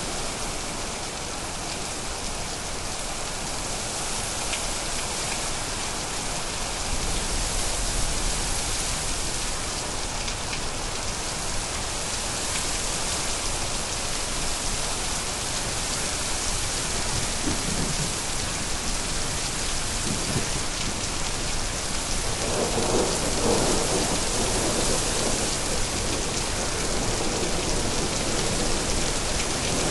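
Thunderstorm: a steady hiss of rain with low rumbles of thunder, a deep one about seven seconds in and a longer one from about two-thirds of the way through.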